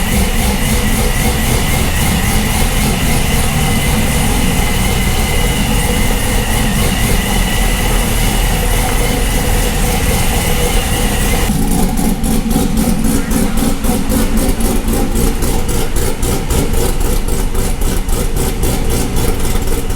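Car engine running at a steady idle, loud and unbroken, with the sound's tone changing abruptly a little past halfway.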